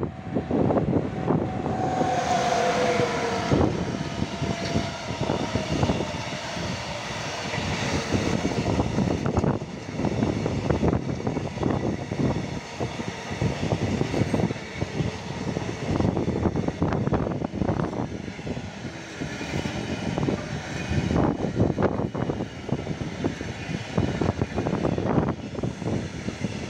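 Electric-hauled freight train of empty container flat wagons passing close by, a steady rolling rumble with irregular wheel clatter and knocks as the wagons run over the rail joints. A short two-note tone sounds about two seconds in as the locomotive approaches.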